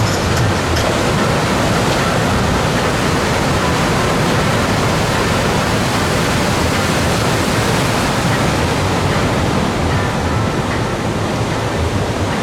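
Ocean surf breaking and washing ashore: a steady rushing noise with no let-up.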